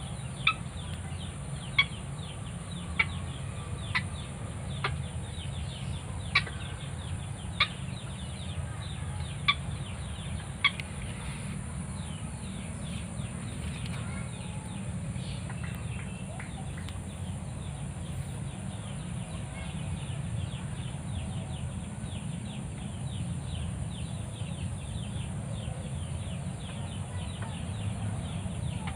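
Bird calling: a sharp, short note repeated about once a second for the first ten seconds, then a faster run of softer ticking notes. A steady high hiss and a low rumble run underneath.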